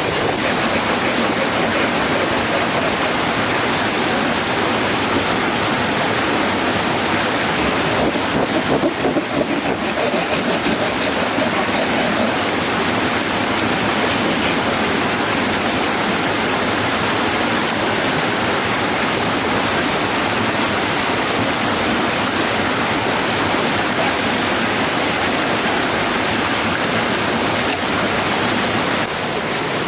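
Heavy rain falling steadily, a dense constant rushing hiss, briefly louder about nine seconds in.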